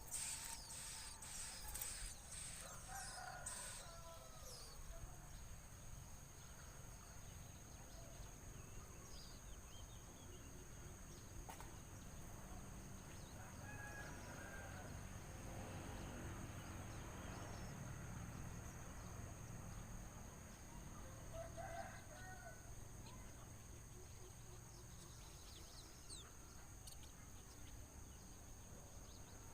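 Faint rooster crowing a few times, with short high bird chirps in the first few seconds over a steady high-pitched tone.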